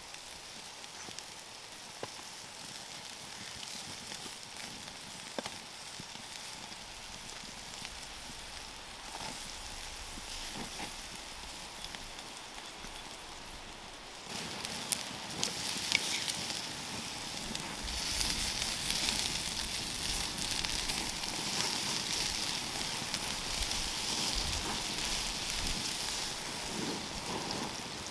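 Burger patties sizzling over a crackling wood fire in a Dakota fire pit. The sizzle gets louder and fuller about halfway through.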